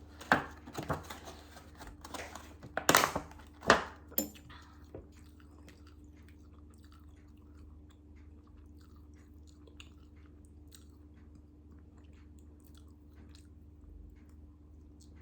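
Someone biting and chewing crunchy food close to the microphone: a few sharp crunches in the first few seconds, then only faint crackles over a steady low hum.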